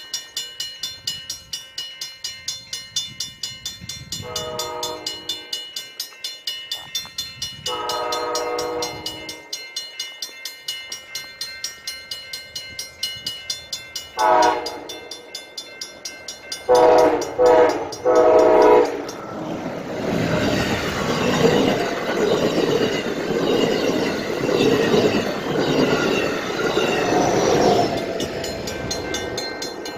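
Amtrak passenger train approaching and passing at speed. Its horn blows two long blasts, a short one and a final long one broken into three parts, while a crossing bell rings about twice a second. The train then rushes past for about eight seconds.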